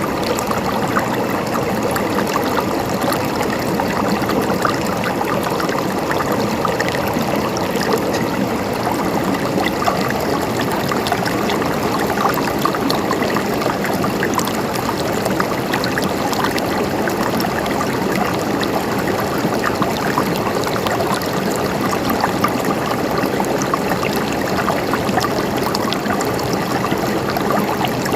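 A river flowing over stones: a steady rush of water with a constant fine babble of splashes and trickles.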